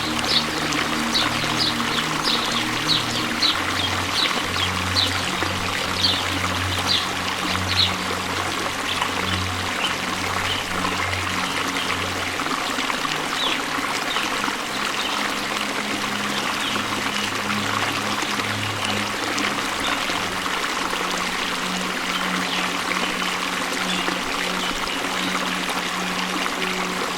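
Steady rushing water of a waterfall, a constant even roar of noise. A low sustained drone that shifts in pitch now and then runs underneath, and quick high ticks come about twice a second over the first eight seconds.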